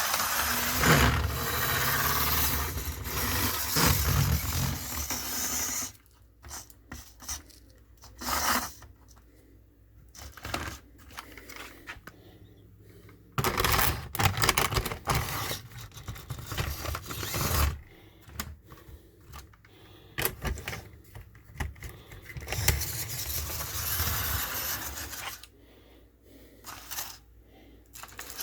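Small HO-scale model diesel locomotive running on track, its motor and gears whirring and grinding with wheels clicking over the rails. The sound swells loud three times and drops back to faint clicking in between, as the engine comes close and moves away.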